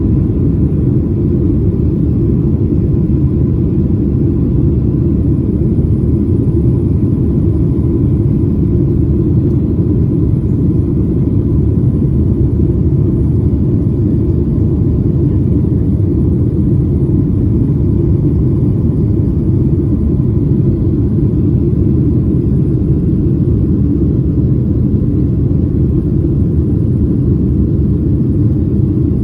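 Steady cabin roar of a Boeing 737 in flight: deep engine and airflow noise that holds level throughout, with a faint steady whine above it.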